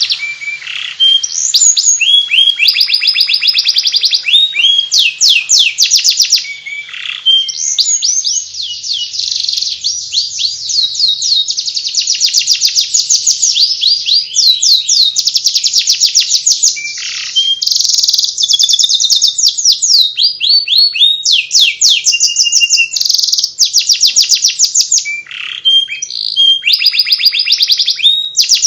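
Domestic canary singing a 'ngeriwik' twittering song: long, rapid trills of high, quickly repeated falling chirps, broken by only brief pauses.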